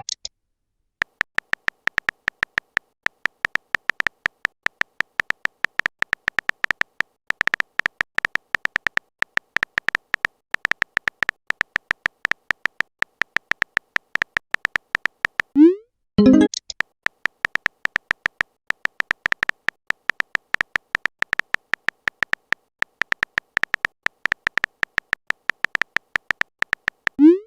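Rapid, even string of short electronic beeps, the typing sound effect of a chat-story messaging app, with one short rising chirp about sixteen seconds in, like a message-arrival notification.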